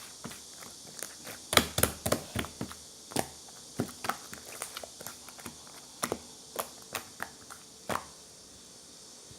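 Slime being squeezed and poked by hand, giving irregular sticky pops and clicks; they stop near the end.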